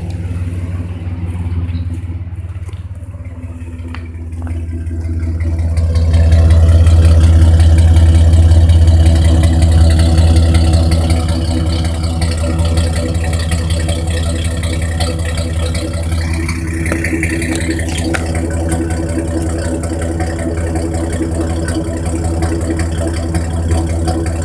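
Chevrolet Blazer's 4.3-litre V6 running through a straight-pipe exhaust with no muffler. It gets louder about five seconds in, holds for several seconds, then settles back to steadier, quieter running.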